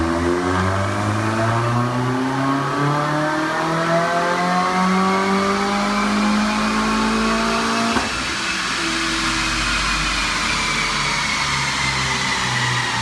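Subaru WRX engine and exhaust accelerating, the pitch climbing steadily for about eight seconds. Then a gear change: a brief click, the pitch drops and starts climbing again.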